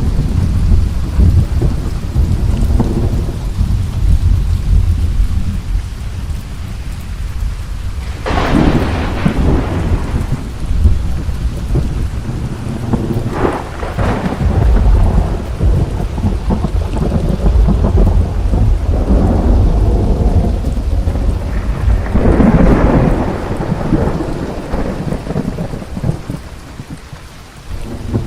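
Heavy rain with thunder: steady rainfall under constant deep rumbling, with louder thunder peals swelling about a third of the way in, around halfway, and again past three quarters, the rumble dying down near the end.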